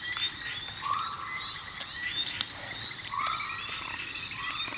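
Small animals calling: a run of short high chirps repeating throughout, with two longer, lower calls about a second in and about three seconds in, and a few sharp clicks.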